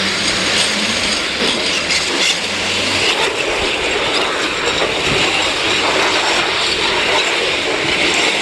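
Steady, loud clattering noise of a rider going down a long park slide.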